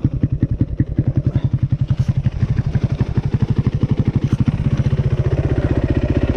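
Dirt bike engine idling with an even, lumpy pulse, settling into a steadier idle about two-thirds of the way in.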